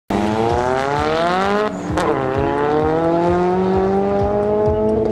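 BMW 3 Series drift cars' engines revving hard, the pitch climbing steadily. About two seconds in there is a brief lift with a sharp click, then the revs drop and climb again, as in a gear change.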